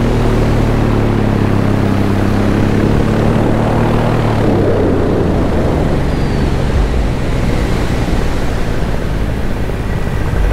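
Paramotor backpack engine and propeller running steadily in flight, with wind rush over the microphone. Its steady tones give way about halfway through to a mostly even rushing noise.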